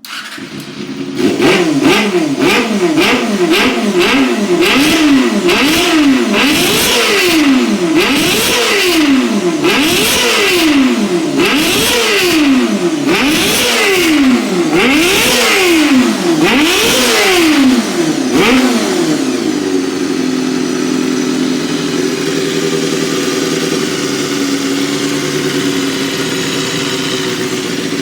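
2001 Honda Hornet 250's inline-four engine catching as it starts, then revved in quick blips about once a second, the pitch shooting up and falling back each time, for about eighteen seconds before it settles into a steady idle.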